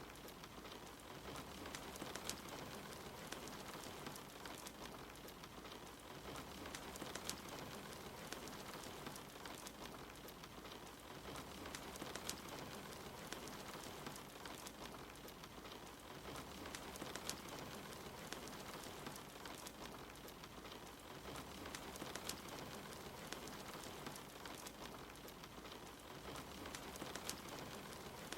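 Steady rain hissing, with a log fire crackling and popping in sharp irregular snaps over it.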